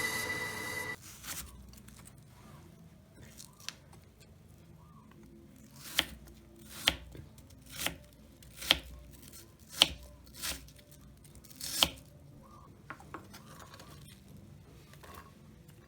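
Knife cutting food on a cutting board: about eight sharp cuts, roughly one a second, from about six seconds in, with a few fainter taps around them.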